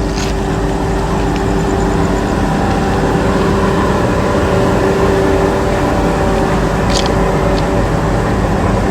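Indian Railways WDG3A diesel locomotive's ALCO 16-cylinder engine running steadily with a low rumble, a loud steady hum and two short clicks, one just after the start and one about seven seconds in.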